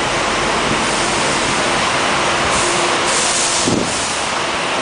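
Steady rushing noise of a jet airliner's cabin after landing, with a faint steady hum underneath and a brief sharper hiss of air about three seconds in.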